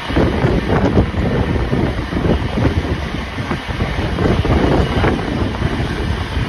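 Wind buffeting the microphone in irregular gusts over the rumble of a train carriage running along the rails.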